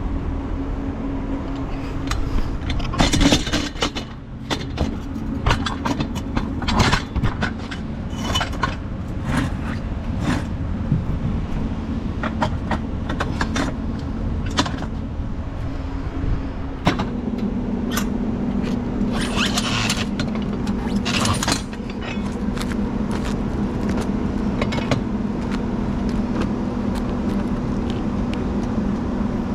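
Tow truck engine running steadily, its hum changing pitch partway through, with scattered clanks and scrapes and a few short hisses.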